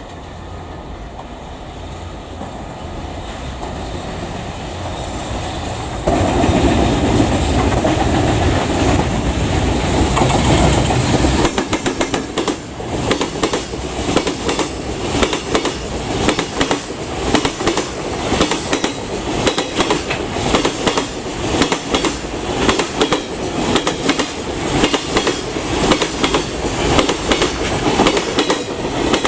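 Freight train passing close by. The locomotive is heard approaching with a low hum that grows louder, then comes past loudly about six seconds in. From about eleven seconds on, the wagons clatter past in a steady, rapid clickety-clack over the rail joints.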